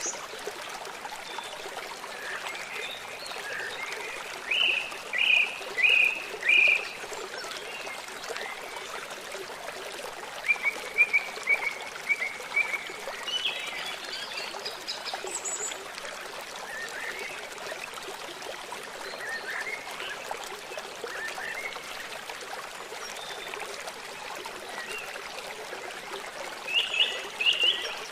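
Forest birds singing in short chirped phrases over the steady rush of running water. A run of four loud notes comes about five seconds in, a quick chirping series around eleven seconds, and another burst near the end.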